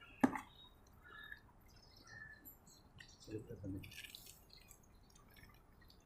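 Dogs eating rice from the ground: faint wet smacking and small clicks of chewing, with one sharper click about a quarter second in and a brief low thump of activity about three and a half seconds in.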